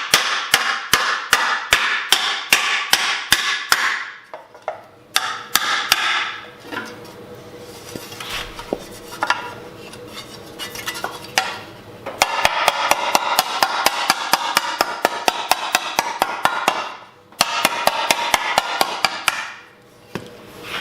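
Rapid mallet blows on a sheet-metal panel held over a dished Delrin shrinking stump, shrinking and stretching its edge so that it rolls over. Steady runs of strikes, about three a second at first, then a quieter stretch of fewer, lighter blows in the middle, then faster runs with two short pauses before they stop near the end.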